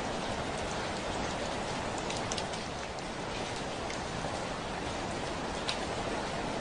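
Heavy rain falling steadily, with a dense even hiss and scattered sharp ticks of individual drops hitting the window.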